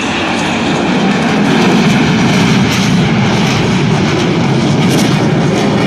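Loud, steady jet noise from Blue Angels F/A-18 Super Hornets flying a barrel roll, swelling a little about two seconds in.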